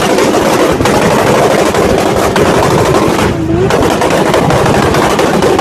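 Loud, rough car noise with a dense crackle, and a short swooping sound about three and a half seconds in.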